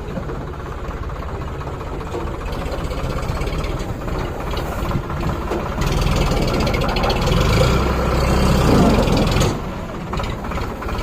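Tractor diesel engine running, growing louder about halfway through and easing off briefly near the end.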